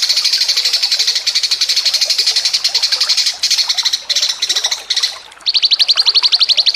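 Caged songbird giving rapid high trills, a fast chatter of repeated notes broken by a few short pauses. About five seconds in it changes to a very even, rapid series of clipped notes.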